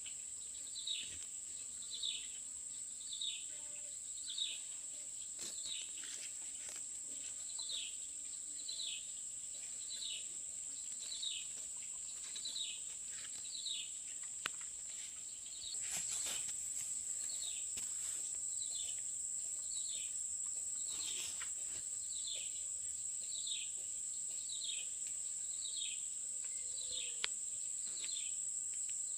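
Steady high-pitched insect drone with a short, falling high chirp repeated about once a second, pausing briefly about halfway through.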